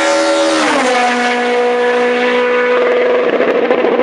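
Hillclimb race car passing close at speed at high revs. Its engine note drops sharply in pitch as it goes by, about a second in, then holds steady as it pulls away, turning rough near the end.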